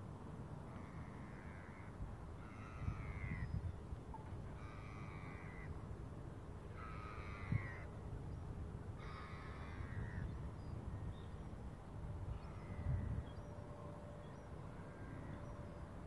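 A bird giving a series of five harsh calls about two seconds apart, then a few fainter ones, over a low wind rumble.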